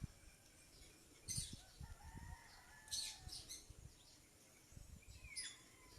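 Faint outdoor ambience with a few short bird calls scattered through it.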